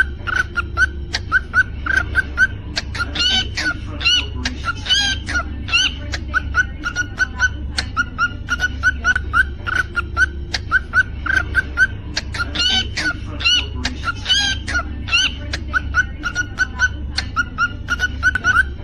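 Cockatiel chirping: a steady stream of short, repeated chirps several times a second, with louder, rising whistled calls breaking in twice, over a steady low hum.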